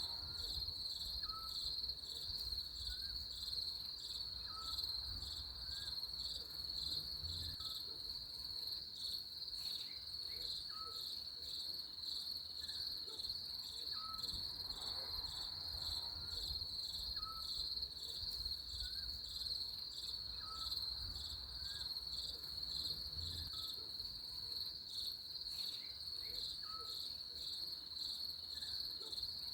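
Nighttime-style insect chorus: a steady, rapidly pulsing high trill, with short faint chirps repeating every second or so and a low rumble underneath.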